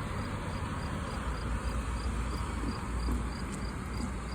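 An insect chirping in a fast, even pulse, about five chirps a second, over a steady low rumble.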